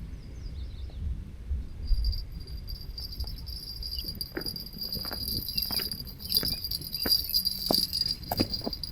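Insects, crickets or similar, trilling steadily in a high continuous chorus that sets in about two seconds in, over a low rumble. Several sharp clicks come in the second half.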